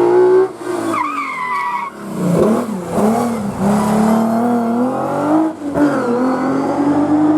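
Historic rally car taking a hairpin: the engine cuts off sharply as it brakes in, the tyres squeal briefly, then the engine revs up and down through the turn and accelerates away with rising pitch, with a gear change near the end.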